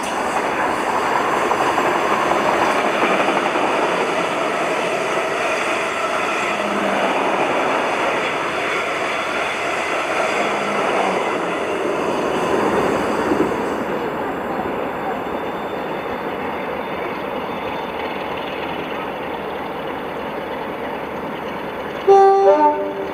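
A train running past: a steady rushing rumble with a faint whine that eases off after about fourteen seconds. Near the end comes a short, loud burst of stepped high tones, about a second long.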